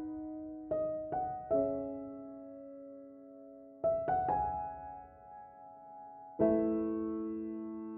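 Slow, gentle solo piano music: a few notes struck in small groups, each ringing out and fading, then a chord a little past the middle that is held and dies away slowly.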